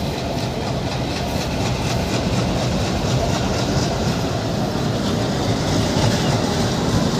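ALCO WDM3D diesel locomotive running with its engine chugging, along with a regular clicking of wheels over rail joints, growing slightly louder.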